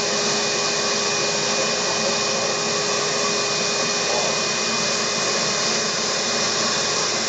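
Vacuum cleaner running steadily, a rushing hiss with a constant whine, its nozzle drawn over a Labrador retriever's coat to pull out loose hair.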